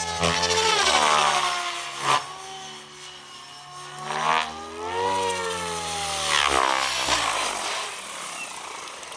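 Soxos 700 electric RC helicopter in flight, its rotor and Xnova motor note rising and falling in pitch as it manoeuvres and passes. There are two short sharp swishes about two and four seconds in. The sound fades toward the end.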